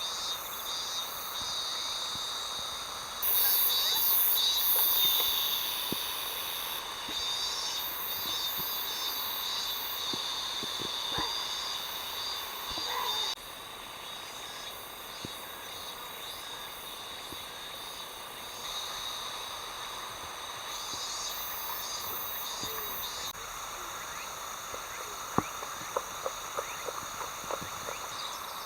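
Chorus of autumn crickets and other insects trilling steadily in several overlapping high-pitched layers. The mix changes abruptly a few times, and a few sharp clicks come near the end.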